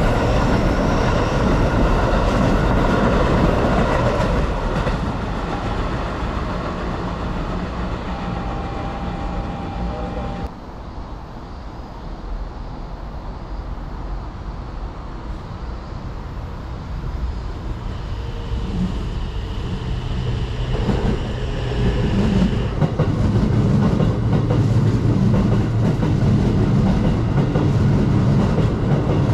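Electric commuter trains running through a station on the Keikyu Main Line. One goes by loudly and fades over the first third, and another approaches and passes loudly in the last third.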